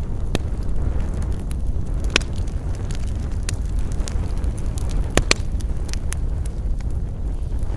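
Wood campfire crackling: scattered sharp pops and snaps, the loudest a close pair about five seconds in, over a steady low rumble.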